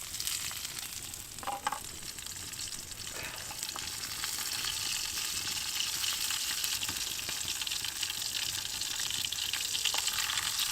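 Scarlet elf cup mushrooms frying in hot coconut oil in a pan over a campfire: a steady crackling sizzle that grows a little louder, with a couple of light knocks about one and a half and three seconds in.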